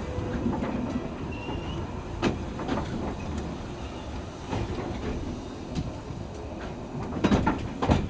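Narrow-gauge train running slowly along curved track: a steady rumble with scattered clicks and knocks of the wheels and carriages, and a louder cluster of knocks near the end.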